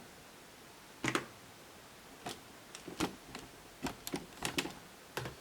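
Scattered light clicks and taps, about eight over a few seconds, from work on a laptop.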